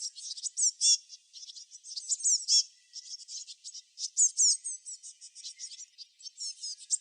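Songbirds chirping: a dense run of quick, high-pitched chirps and downward-sweeping notes from several birds at once, with short lulls about three and six seconds in.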